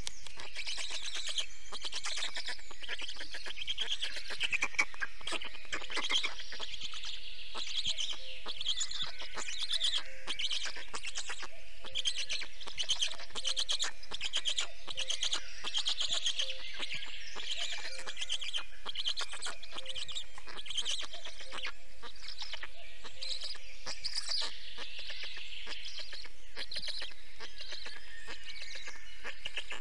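Birds calling: a dense run of rapid, high chirps that carries on throughout, a little louder around four to six seconds in.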